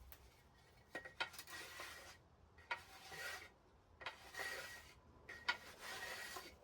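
A piece of wood being shaped by hand with an abrasive, rounding its top edge, in four rubbing strokes of about a second each.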